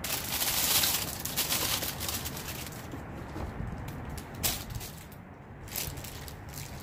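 Rustling and handling noise, with a louder swell of rustling in the first second or two and a few sharp knocks or clicks later on.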